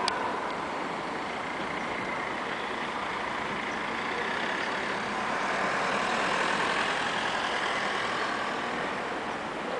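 Train running: a steady mechanical running noise with a faint high whine, growing a little louder about halfway through, with a sharp click at the very start.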